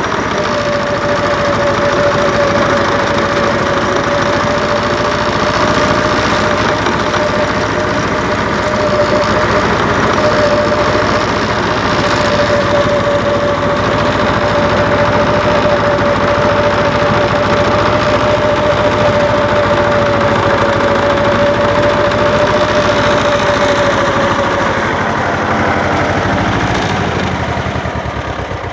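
Pasquali tractor engine running steadily. A steady whine rides over the engine and fades out near the end.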